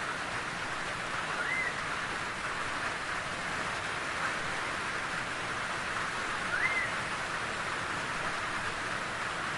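Steady rain falling, a continuous even hiss of drops. Two short rising chirps sound over it, about a second and a half in and again about six and a half seconds in.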